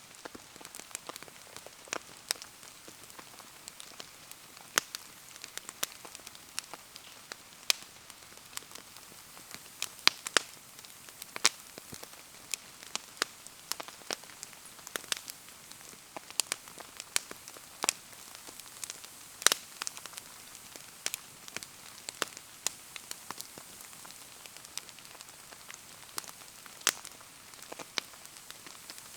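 Wood bonfire crackling with irregular sharp pops, over a steady hiss of rain falling around it. One pop about two-thirds of the way through is louder than the rest.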